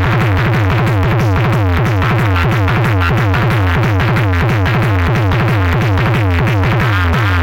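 Loud electronic DJ remix played through a DJ sound system, with a heavy, steady bass line and rapid falling synth sweeps repeating several times a second.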